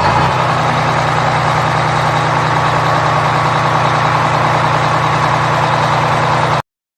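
A vehicle engine idling steadily, which cuts off suddenly near the end.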